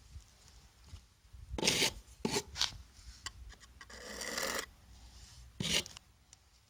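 Five short scraping strokes of something hard rubbed against a rough surface, the longest about four seconds in.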